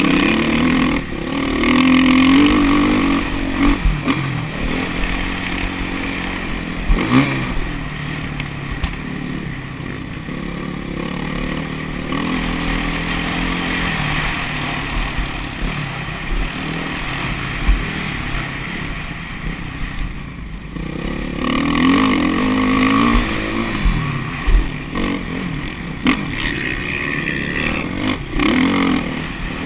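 Motocross bike engine revving up and down as it is ridden, the pitch rising and falling again and again, with a few knocks and clatter along the way.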